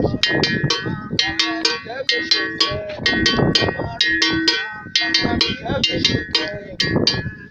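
A metal bell like a cowbell struck in a fast, steady rhythm, about four ringing strikes a second.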